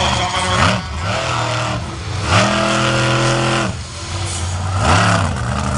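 Monster truck engine revving hard, its pitch climbing and dropping about a second in, held high for over a second in the middle, then climbing and falling again near the end.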